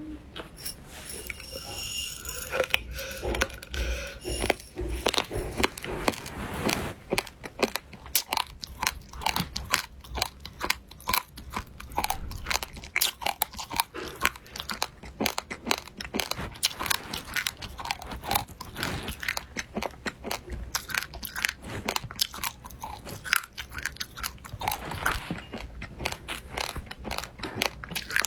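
Close-up eating: crisp, crunchy bites and chewing of a crunchy food, many irregular crunches a second.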